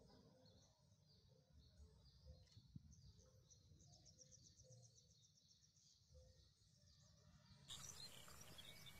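Near silence with faint bird chirps, including a short rapid trill of evenly spaced notes partway through. A faint steady hiss of outdoor background comes in near the end.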